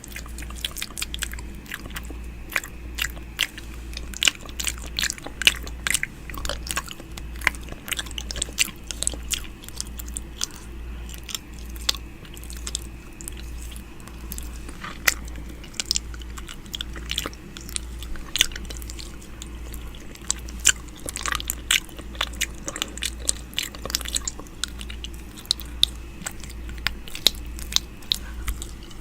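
ASMR 'ear eating' mouth sounds close to the microphone: dense, irregular strings of sharp wet clicks and nibbles over a faint low hum.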